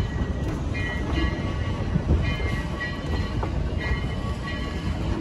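Narrow-gauge passenger train rolling slowly through a yard, heard from aboard: a steady low rumble of wheels and car bodies on the track, with a few light clicks.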